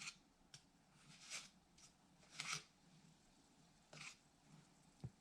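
Faint rustling and scraping in short, uneven strokes, about seven in all, as a teaspoon is dipped into a container of chicken bouillon powder to measure it out.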